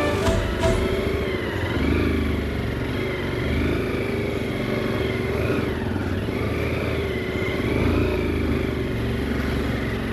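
Motorcycle engine running under load on a rough off-road track, its pitch rising and falling as the throttle is worked.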